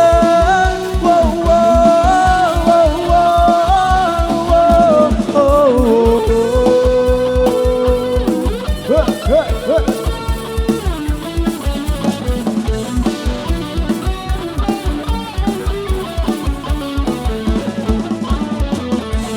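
Loud live Isan band music played through a rot hae sound-truck system: a fast, even drum beat under a melodic lead line that carries the tune in the first several seconds, then lower held notes.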